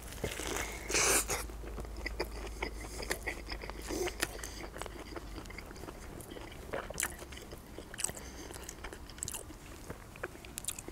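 Close-miked bite into a double bacon cheeseburger about a second in, then steady chewing with many small wet clicks and crunches.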